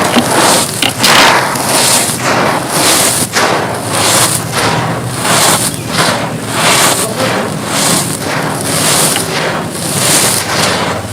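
Dry, gritty mud chunks crumbling and crunching in repeated bursts, about one or two a second.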